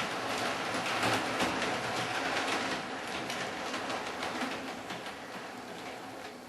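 Hornby model train running along the track: a steady noise of wheels on rail with irregular clicks. It fades gradually over the last few seconds as the train moves away.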